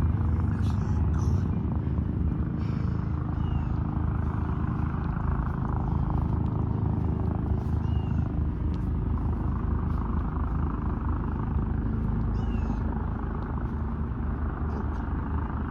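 Steady low engine-like drone throughout, with a few brief high chirps over it.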